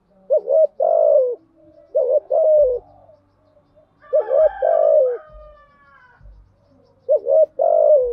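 Spotted dove cooing: four phrases, each a quick double coo followed by a longer drawn-out coo. This is the call played as a lure to rouse a decoy bird and bring territorial males in.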